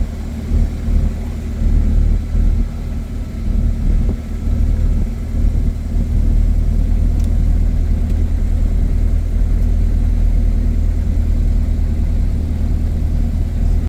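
Cessna 177 Cardinal's single piston engine and propeller running with a steady low drone, then cutting off abruptly at the end.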